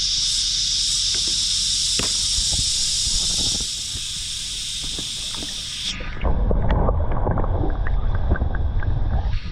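Cicada chorus: a steady, high-pitched buzzing drone. About six seconds in, the drone cuts off abruptly and gives way to loud, muffled sloshing and bubbling with small clicks, as the microphone goes underwater while the bass is released.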